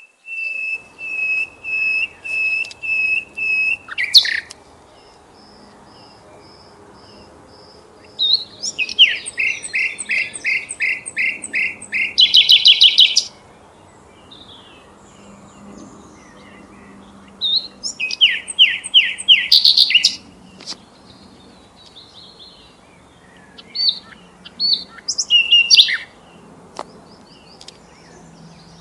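Bird song: series of short, high chirping notes, each series repeated several times, with pauses between series. A run of even whistled notes opens, two faster, louder trills follow in the middle, and scattered calls come near the end.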